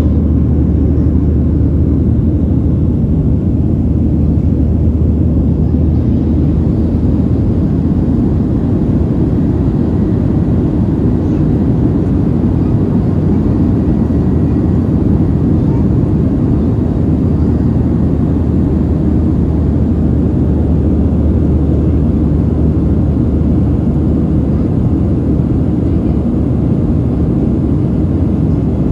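Steady, loud engine and airflow noise inside the cabin of a Boeing 737-700, its CFM56-7B turbofan engines running, with a low hum underneath.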